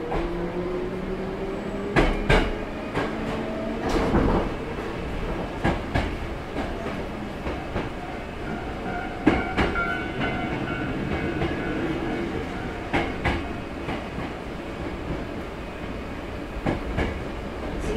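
Hankyu 6300 series electric train running between stations, heard from inside the car: a steady rumble with a motor whine that rises in pitch at the start as the train picks up speed. The wheels click over rail joints in quick pairs every few seconds, and thin high tones ring briefly around the middle.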